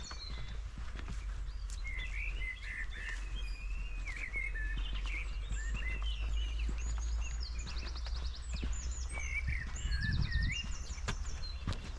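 Several small songbirds calling in a forest: scattered short chirps and whistled calls, with a few quick, rapid trills. Under them is a low steady rumble, and there is a soft thump about ten seconds in.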